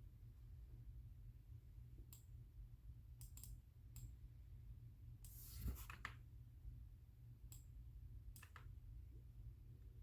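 Scattered single clicks from a computer mouse and keyboard, a few seconds apart, with a longer swishing sound about five and a half seconds in, over a low steady hum.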